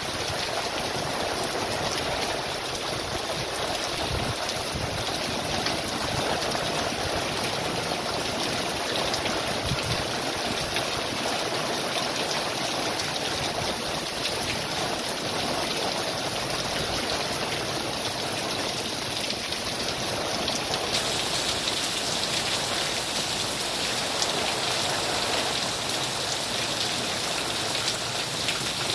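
Heavy rain falling steadily on a gravel yard and tree leaves, a dense patter of drops with water pouring down in streams.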